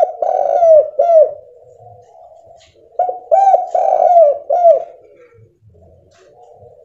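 Spotted dove cooing: two phrases of about four notes each, the first right at the start and the second about three seconds in, each note bending down in pitch at its end.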